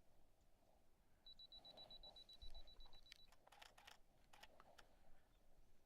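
Camera's self-timer beeping rapidly at a steady high pitch for about two seconds, then the shutter clicking several times as it fires a bracketed series of three exposures.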